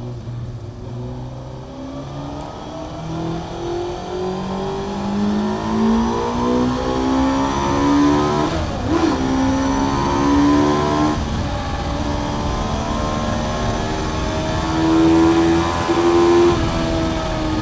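2011 Honda CBR600F's high-revving inline-four with a Mivv aftermarket exhaust, heard from onboard while accelerating hard: the revs climb steadily, dip briefly about halfway through, then climb again before a drop in pitch near the end, as at a gear change.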